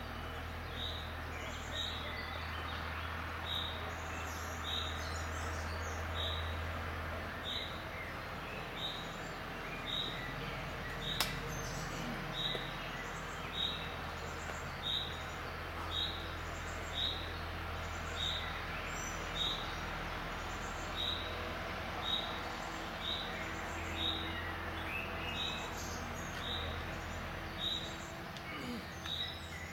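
A bird calling one short high note over and over, very regularly, about once a second, over a steady low background rumble. There is a single sharp click about eleven seconds in.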